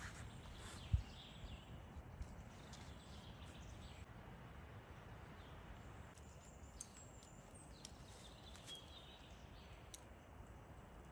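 Quiet outdoor ambience: a low steady rumble with a few faint bird chirps, a soft low thump about a second in, and a few light clicks.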